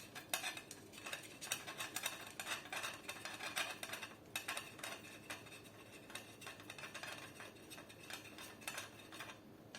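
Hex key turning a screw out of an airsoft AK, with many small metallic clicks and light scrapes of tool and metal parts.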